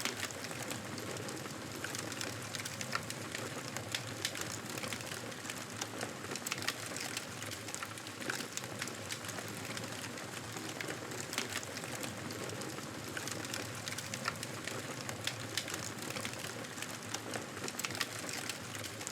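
Wood fire crackling in a fireplace: irregular sharp crackles over a steady soft hiss.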